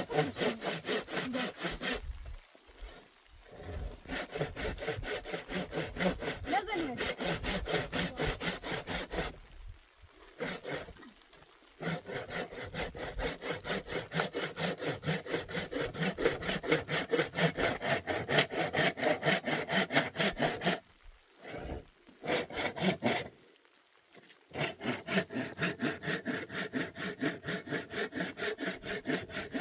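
Hand saw cutting wood in quick, regular back-and-forth strokes, stopping briefly a few times.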